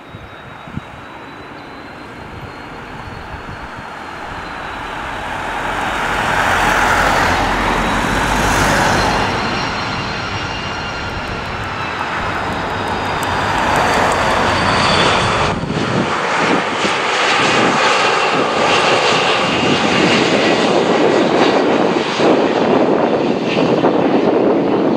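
Airliner's engines passing close, a broad noise with a high whine that builds over the first six seconds and stays loud and rough to the end.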